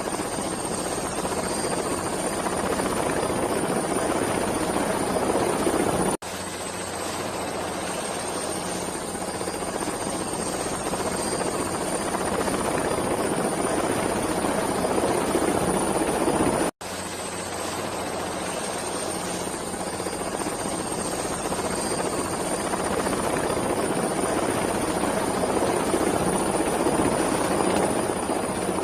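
Helicopter flying: steady rotor and turbine noise with a thin high whine. The sound swells slowly and cuts off abruptly twice, about six seconds in and again near seventeen seconds, as the recording loops.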